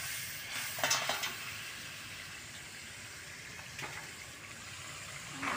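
Masala sizzling and bubbling in a steel pot, with a spoon scraping through it in short strokes about a second in and again near four seconds. A louder burst of sizzling noise comes right at the end.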